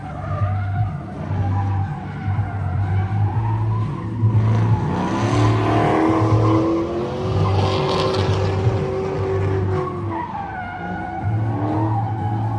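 Drift car engine revving hard, its pitch rising and falling, while the tires squeal and skid through a slide, loudest in the middle.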